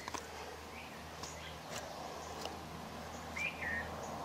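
Faint outdoor background with a bird chirping twice, short curved calls, and a few soft clicks.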